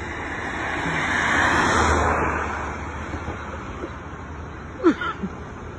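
A vehicle passing by, its noise swelling to a peak about two seconds in and fading. Near the end come two brief pitched squeals that rise sharply; the first is the loudest sound here.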